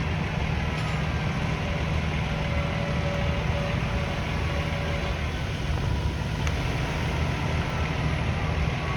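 Steady low rumble of motor vehicle engines and road traffic, with no clear siren.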